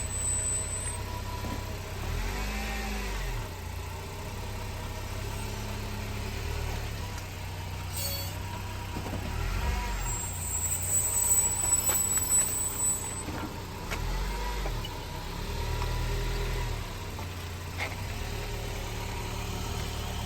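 2017 Honda Accord running, its rear brakes making noise over the steady low engine hum: a rising-and-falling tone sweeps in a few times. The rear brakes are grabbing weakly.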